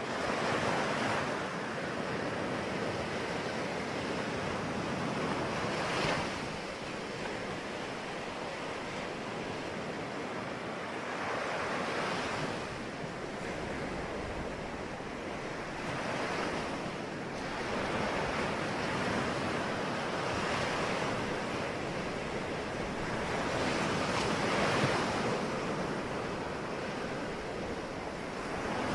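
Sea waves breaking on the shore, a steady wash of surf with a wave surging in every few seconds. Some wind noise on the microphone.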